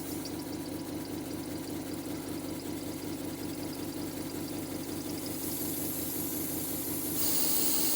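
Model horizontal single-acting steam engine running on compressed air from a small airbrush compressor, with a steady hum and a quick, regular ticking beat. A hiss of air comes in near the end.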